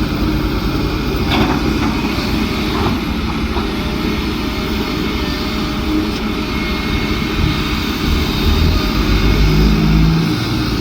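Heavy vehicle engine running steadily. It grows louder and deeper in the last few seconds, with a few faint knocks early on.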